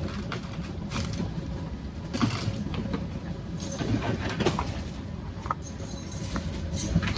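Small objects being handled and rummaged through: irregular clicks, taps and rattles over a steady low background rumble.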